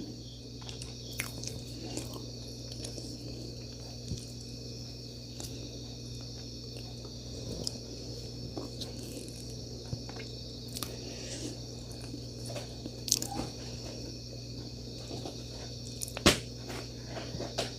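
Native Korean chestnuts being peeled and eaten: scattered small cracks of shell and crunches of chewing, with a sharper crack about three-quarters of the way in, over a faint steady hum.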